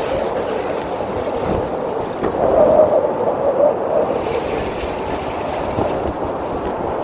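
Strong wind blowing through a snow squall, a steady rushing that swells briefly about two and a half seconds in.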